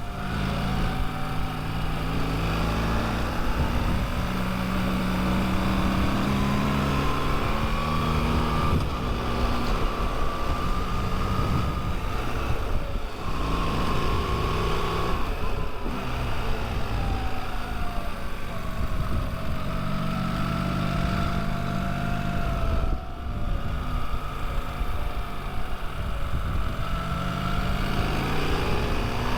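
Motorcycle engine running while riding, its pitch rising and falling with throttle and gear changes, with brief drops in level around gear changes. Steady wind rush on the microphone runs underneath.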